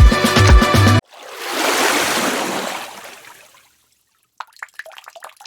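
Background music cuts off about a second in, followed by a rush of water that swells and fades. After a short pause comes a quick patter of drips and trickles, like water running off a canoe paddle blade.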